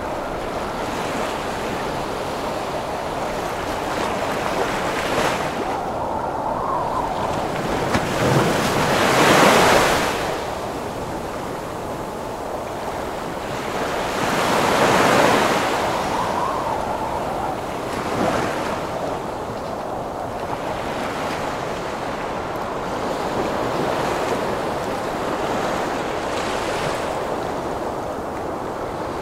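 Heavy ocean surf under storm wind: a steady wash of water with waves building and crashing, the two biggest breakers about a third of the way in and near the middle, a smaller one just after, and a faint howl of wind rising and falling now and then.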